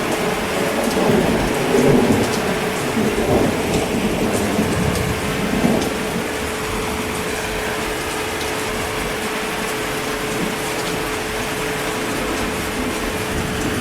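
Steady heavy rain with a rolling rumble of thunder that dies away about six seconds in.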